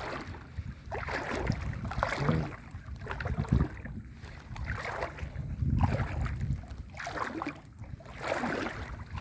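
Floodwater sloshing and swishing around a person's legs as they wade through it, in surges every second or two with each stride.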